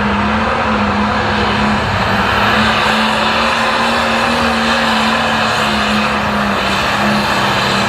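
Light pro stock pulling tractor's turbocharged diesel engine running flat out under load during a pull, holding a steady high pitch.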